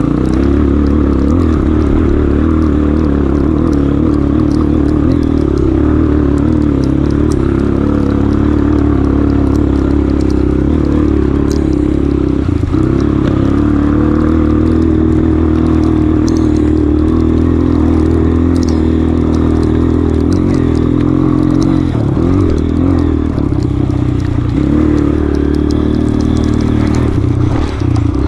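Honda CRF230F's air-cooled single-cylinder four-stroke engine running steadily, its pitch rising and falling with the throttle, with scattered knocks and rattles.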